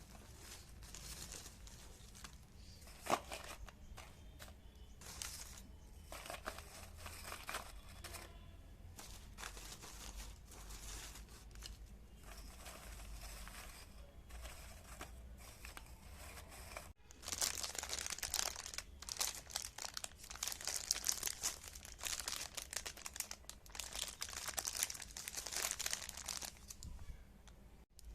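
Irregular crinkling and crackling of something being crushed or torn. It breaks off abruptly about 17 seconds in and resumes louder and denser, as after a cut to another clip.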